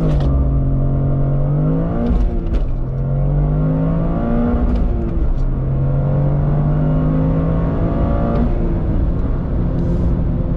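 The 2022 Toyota GR Corolla's turbocharged three-cylinder engine pulling under acceleration. Its pitch climbs and then drops back several times, as at upshifts of the six-speed manual, and a few short clicks are heard along the way.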